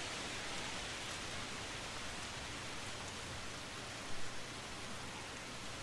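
Steady rain noise, an even hiss of rainfall with no music left over it, with a brief louder moment about four seconds in.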